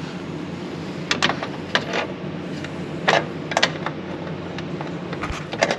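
Scattered sharp metallic clicks and clinks of hand tools and metal parts, about seven in all, over a steady low hum.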